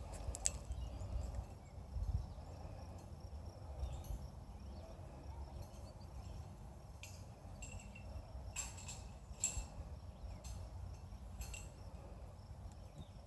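Faint outdoor background: a steady low rumble under a thin high hum, with a few short clicks about two-thirds of the way through.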